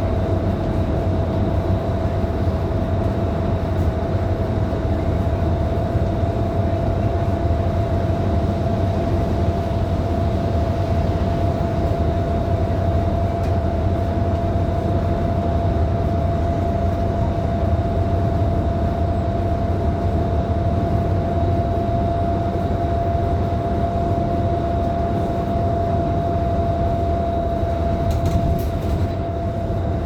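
Scania K310IB city bus running at a steady cruise: a continuous engine drone with road and tyre noise, and a steady whine that holds one pitch throughout.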